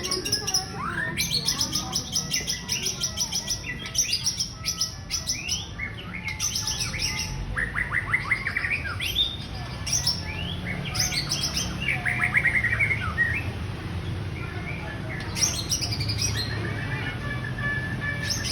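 White-rumped shama (murai batu) singing: phrases of quick, sharp high notes and fast trills, with a short lull before a last phrase near the end, over a steady low hum.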